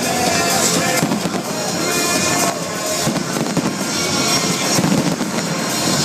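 Fireworks going off in a continuous crackle of bursts, mixed with the show's music playing over loudspeakers.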